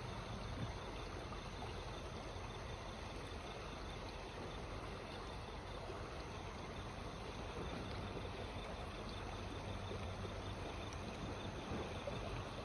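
Creek water running, a steady even rush with no distinct events.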